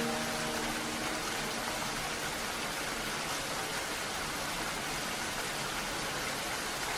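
Steady rain hiss, with the last held notes of a soft melody fading away in the first second or so.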